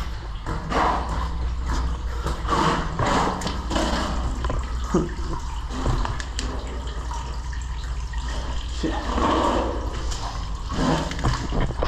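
Water splashing and running in a stormwater drain tunnel, in uneven louder surges about every one to two seconds over a steady low rumble.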